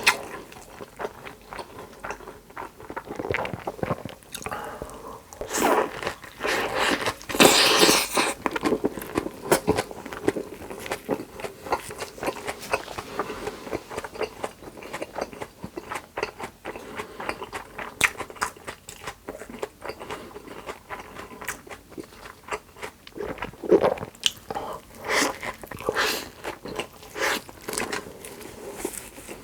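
Close-miked eating: repeated bites, crunching and chewing, louder in a few clusters of bites.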